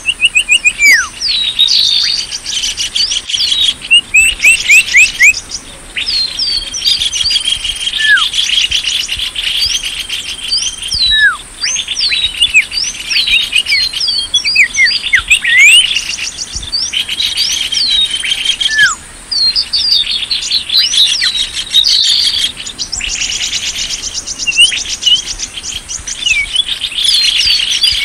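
A bird-lure recording of small songbirds calling: fast buzzy trills mixed with many sharp whistled notes that drop steeply in pitch, repeated over and over. A thin, steady high-pitched tone runs underneath.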